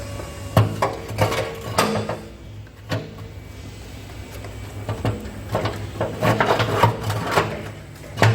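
Irregular knocking, clattering and scraping of hard objects being handled. It comes in two busy spells, the first about half a second in and the second from about five seconds in, with a quieter gap between them.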